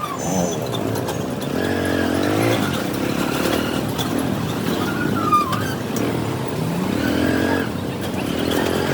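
Motorcycle engine running on the move, revving up and easing off several times, with road and traffic noise. A brief high squeal comes about five seconds in.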